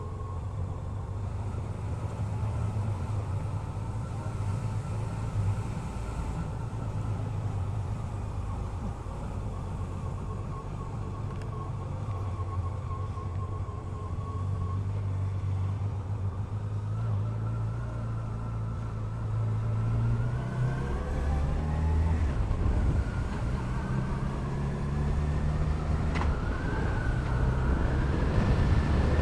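Motorcycle engine running on the road, steady at first, then its note rising in pitch a couple of times in the last third as it accelerates, growing louder toward the end.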